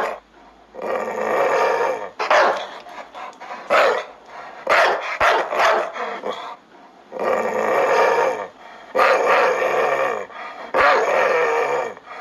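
A dog barking over and over in loud runs about a second long, with short pauses between them.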